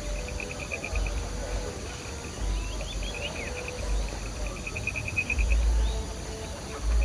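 Insects trilling in fast, evenly pulsed bouts that stop and start, with a few short high chirps around the middle. Wind buffets the microphone with low rumbling gusts, strongest past the halfway mark and near the end.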